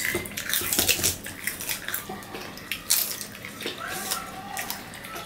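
Close-up wet crunching and smacking of people biting into and chewing juicy raw green hog plums (amra), a quick run of short crunches and clicks.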